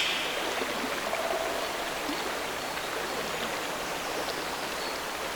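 Flowing water of a stream, a steady even rush.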